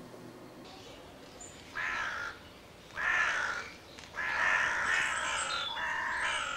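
Johnny Stewart Hammerin plastic crow call blown by mouth, giving a series of crow caws imitating a crow. The caws start about two seconds in: two short ones, then longer caws that run together.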